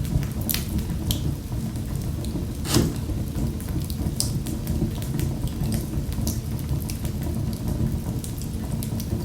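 Fire in a fireplace crackling: a steady low rumble of flames with scattered sharp pops, the loudest a little under three seconds in.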